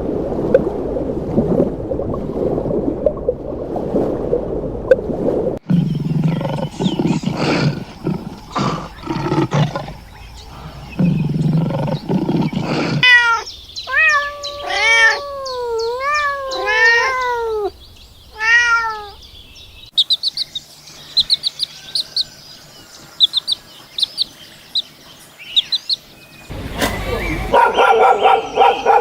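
A string of different animal calls one after another: low, rough growling sounds for about the first thirteen seconds, then a run of short pitched cries that bend and fall in pitch, then rapid high chirps, and a louder call near the end.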